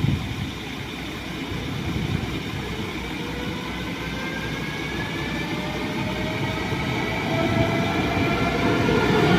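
Electric train with a steady rumble and a whine of several tones that slowly rises in pitch from about three seconds in, growing louder toward the end as the train picks up speed.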